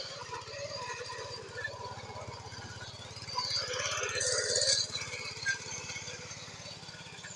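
Small tractor engine running steadily with a fast, even firing pulse, and a louder noisy stretch about three to five seconds in.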